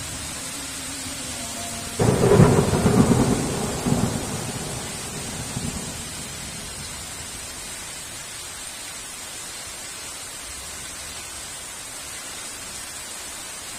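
Steady heavy rain, with a thunderclap about two seconds in: a sudden crack that rumbles on, flares once more, and dies away over the next few seconds.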